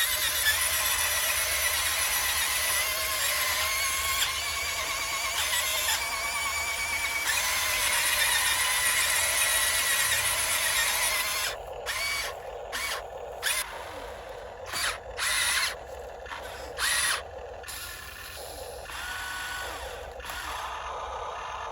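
Electric motor and plastic gearbox of a radio-controlled dump truck whining steadily, then run in about six short bursts before settling to a quieter steady whine.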